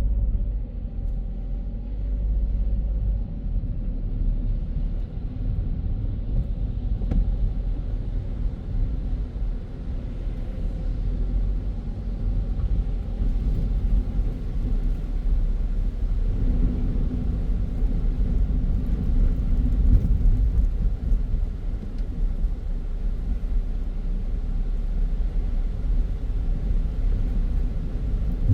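A car driving, with a steady low rumble of engine and tyres on the road.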